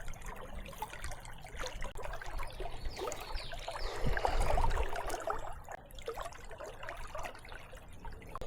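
River water trickling and burbling in an irregular patter. Four to five seconds in there is a louder swell of noise with a low rumble.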